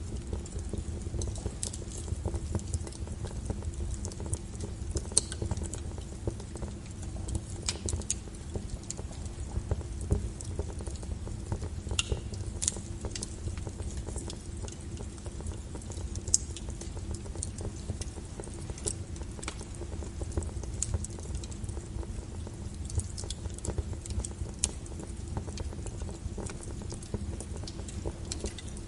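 Wood logs burning in a fireplace: irregular crackles and sharp pops over a steady low rumble of the fire.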